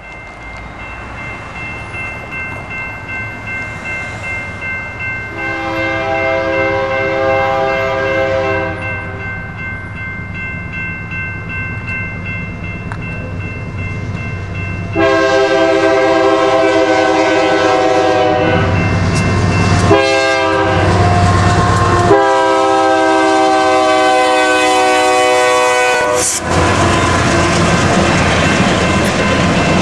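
Diesel freight locomotive air horn sounding a multi-note chord as the train approaches, one long blast followed by a longer run of long and short blasts. The rumble of the train grows louder throughout and continues as a loud steady roar after the horn stops.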